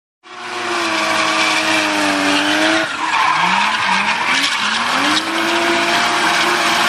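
A racing car's engine running at high revs, the pitch climbing in three quick steps in the middle before it holds steady again, over a loud hiss of tyre noise. The sound starts and cuts off abruptly.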